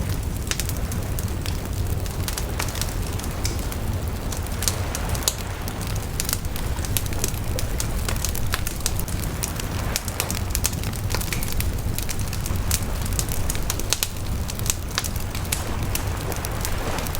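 Wood bonfire burning, with a steady low rumble of flames and frequent sharp crackles and pops at irregular intervals.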